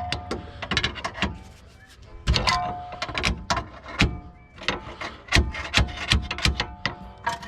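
Irregular metallic clanks and knocks of hand tools working on a car's rear strut assembly, several of them ringing briefly.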